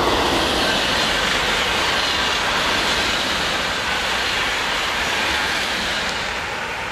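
Double-deck TGV high-speed train passing at speed: a loud, steady rush of wheels on rail and air, easing slightly near the end as the train's tail draws away.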